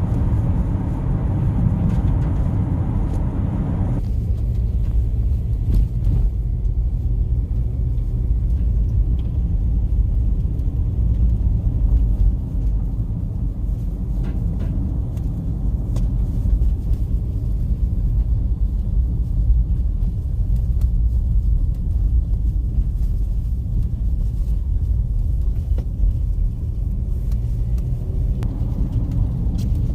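Car driving, a steady low road-and-engine rumble; a higher tyre hiss drops away about four seconds in.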